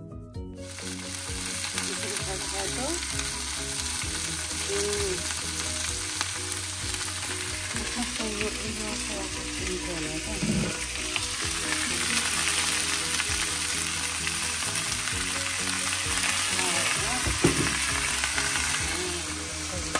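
Chow mein noodles frying in a hot pan: a steady sizzle that starts about half a second in, with the knock and scrape of a utensil as they are stirred and one sharper knock near the end.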